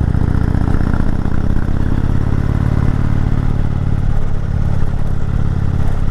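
Indian motorcycle's V-twin engine running steadily under load while riding uphill, heard from onboard with road and wind noise over it.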